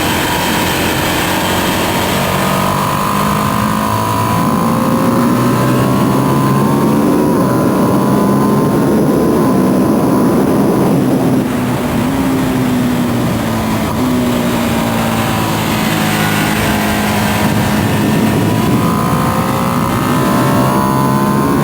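2025 Ducati Panigale V2S's V-twin engine on its stock exhaust, running hard at track speed with heavy wind rush. The engine pitch steps down about halfway through, then climbs again near the end.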